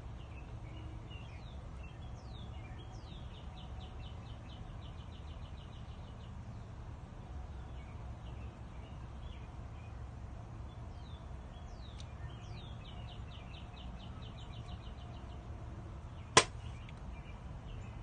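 A songbird sings two phrases, each a few quick sweeping notes followed by a fast even trill, over a steady low rumble. A single sharp click about 16 seconds in is the loudest sound.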